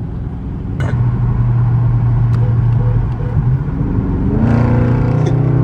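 Straight-piped Dodge Charger Scat Pack's 6.4-litre HEMI V8 exhaust under way: a sharp click about a second in, then a steady loud drone, rising in pitch about four seconds in as the car accelerates.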